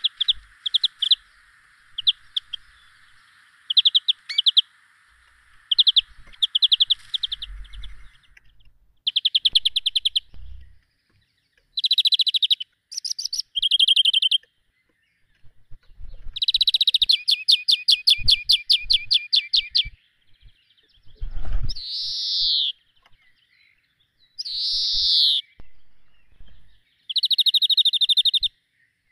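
Small songbirds singing: repeated bursts of rapid high chirping trills, with several short falling whistled notes in the last third. A faint steady hiss lies underneath for the first eight seconds.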